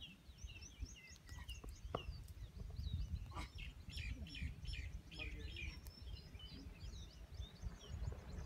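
Small birds chirping: many short calls that rise and fall in quick succession, over a steady low rumble.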